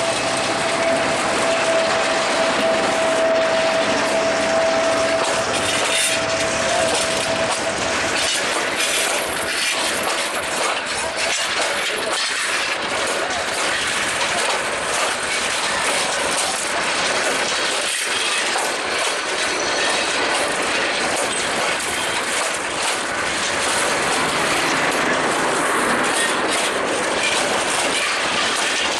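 Passenger train on the rails: a loud, steady rumble and rattle of the coaches running over the track. A single steady tone sounds over it and stops about seven seconds in.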